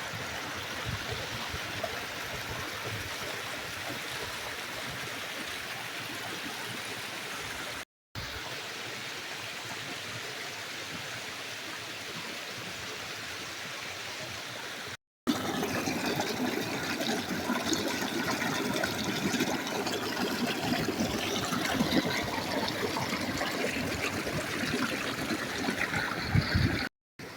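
Small waterfall rushing and splashing steadily, well fed with rainy-season water. After a cut about halfway through it is louder and more splashy.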